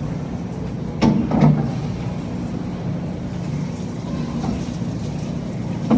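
A steady low hum with two short knocks or clatters about a second in, and another near the end.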